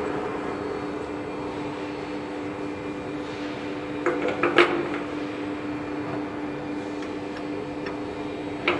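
Steady machine hum with a few sharp clicks and knocks about halfway through and another near the end.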